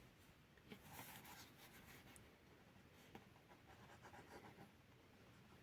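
Faint scratching of a drawing tool on paper, in a few soft strokes as a leg is drawn.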